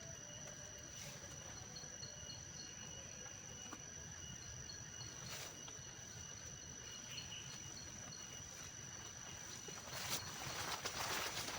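Faint, steady high-pitched insect calls, with one trilling, pulsing tone among them. About ten seconds in, a louder rustling noise rises over them.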